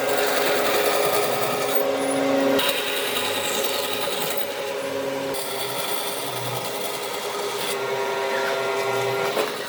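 A power tool working wood, a steady motor tone with rubbing and scraping against the wood. The sound changes abruptly three times, like short edited clips of the work.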